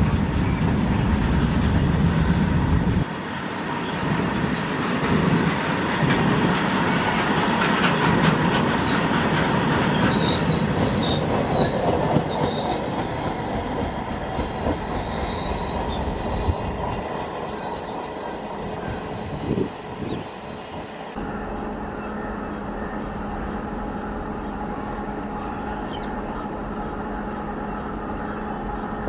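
Loaded open freight wagons rolling past on a curve, their wheels rumbling and squealing with a high, wavering flange squeal. About two thirds of the way in it changes abruptly to a quieter, steady hum from an approaching electric locomotive.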